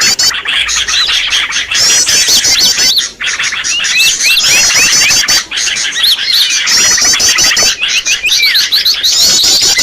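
Dense, loud chorus of small songbirds chirping and whistling without pause, with a rapid high trill recurring about every two and a half seconds: a looped lure recording (suara pikat) for trapping small birds.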